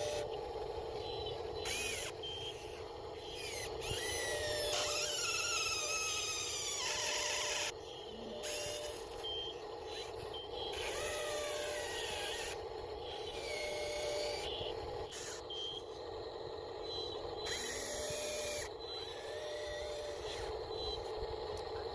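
Small electric motors and gearboxes of a radio-controlled excavator and Huina RC dump truck whining as they work, the pitch gliding up and down as the models move and load.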